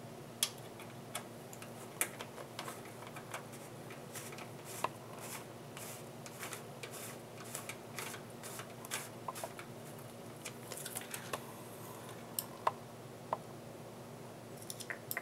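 Small screws and a screwdriver being handled while a DVD drive is fastened into a PC case: irregular light metallic clicks and ticks, some in quick clusters, a few louder single clicks.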